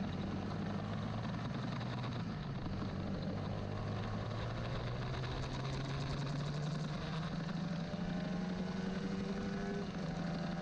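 Old carbureted Honda CBR150R's single-cylinder four-stroke engine running steadily, its pitch climbing slowly from about four seconds in as the revs build.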